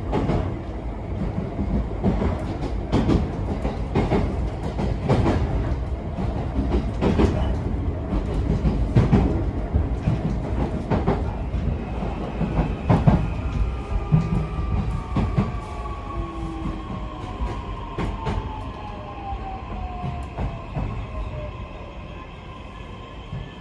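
Running sound inside a JR East E131-1000 series electric train: a steady rumble with wheels knocking over rail joints. About halfway through, a motor whine starts gliding down in pitch and the sound grows quieter as the train slows.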